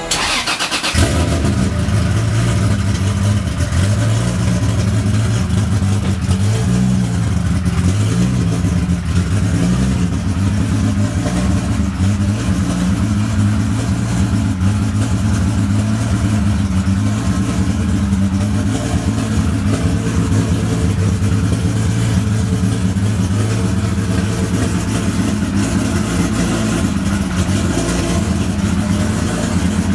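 Toyota Supra's built twin-turbo 2JZ-GTE inline-six, with forged CP pistons and Carrillo rods, idling steadily with a slightly uneven, wavering note.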